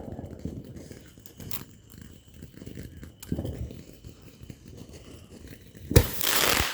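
A consumer firework going off: low rumbling with a few faint crackles, then about six seconds in a sharp bang and a loud spraying hiss that cuts off abruptly.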